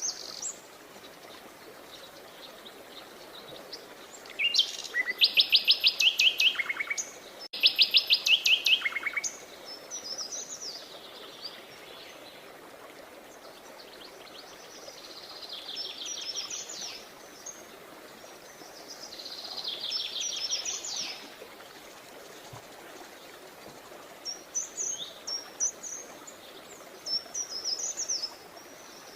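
Songbirds singing: rapid high trills, the loudest two stepping down in pitch in a few stages, with softer trills and scattered short high chirps between them, over a faint steady background hiss.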